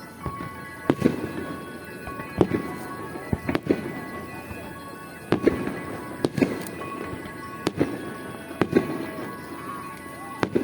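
Aerial firework shells bursting, about a dozen sharp bangs at irregular intervals, some in quick pairs, over music.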